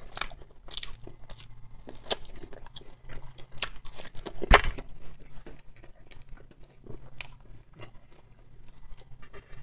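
Close-up chewing and biting of oven-roasted potato and pork neck eaten by hand: wet smacking with small crisp crunches and clicks. One louder thump about four and a half seconds in.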